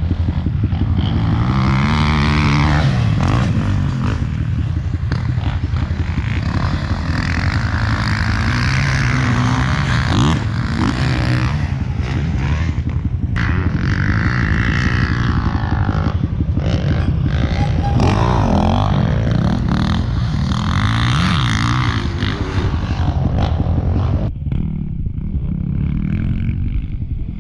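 Motocross dirt bike engine being ridden hard, its pitch rising and falling over and over as the throttle is worked and gears change, with wind noise over it. About 24 seconds in the sound turns suddenly duller.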